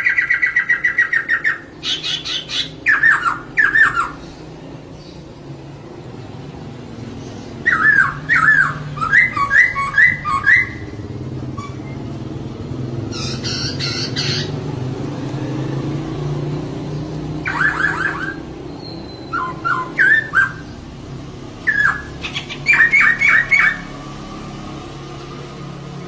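Female poksay (laughingthrush) calling in loud bursts of rapid, repeated notes, a fast trill at the start and then several short clusters a few seconds apart, over a steady low hum. This is the female call that keepers play to spur males into singing.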